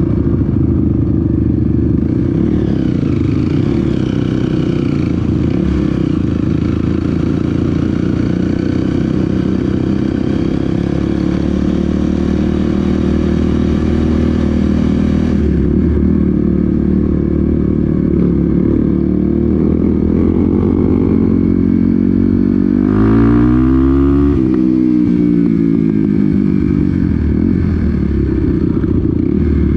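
Off-road motorcycle engine running steadily under way on a trail ride. Its pitch rises sharply and falls again about 23 seconds in.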